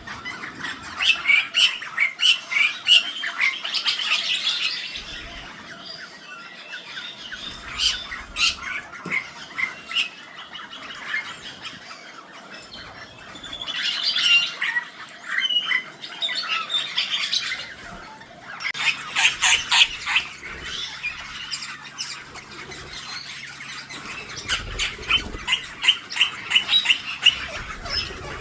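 Aviary parakeets calling: clusters of sharp, repeated high calls with quieter chatter between, loudest near the start, about halfway through and again towards the end.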